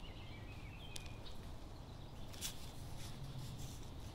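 Faint outdoor ambience with a small bird calling in warbling phrases for about the first second. A short tick and a brief rustle follow, about one and two and a half seconds in.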